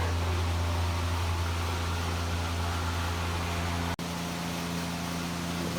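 Steady low mechanical hum, cut short by a sudden break about four seconds in, after which it continues a little weaker.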